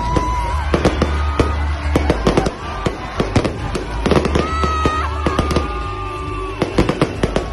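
Aerial fireworks bursting overhead: a rapid, irregular run of sharp bangs and crackles, several each second.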